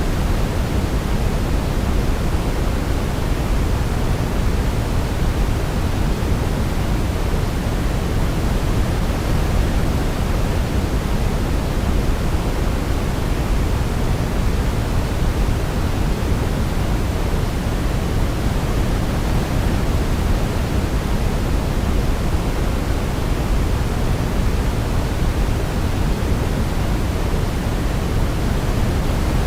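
Steady white-noise sleep track, a constant even hiss weighted toward the low end like pink noise.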